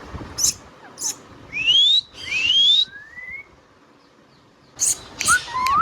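Indian ringneck parrot calling: a couple of sharp chirps, then two loud rising whistles, a fainter rising whistle, a short pause, and more sharp chirps with a rising call near the end.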